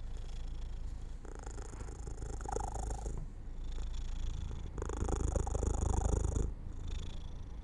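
Domestic cat purring as it drifts off to sleep, the purr rising and falling with its breaths, each lasting a second or two. The loudest stretch runs from about five to six and a half seconds in.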